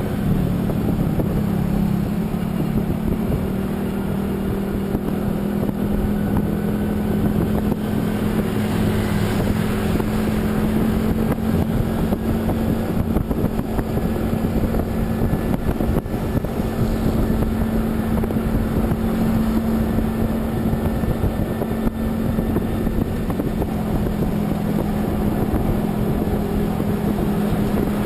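A vehicle engine running steadily at cruising speed, with a constant rush of road and wind noise.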